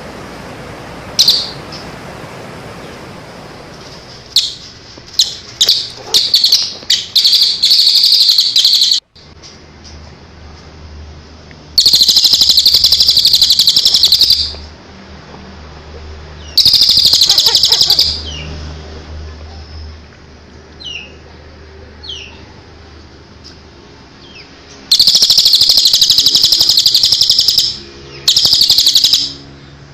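Recorded songbird calls for training cage birds: loud bursts of rapid, harsh, high-pitched chattering trills, each one to three seconds long, with a few short chirps between. The recording cuts off abruptly about nine seconds in and picks up again.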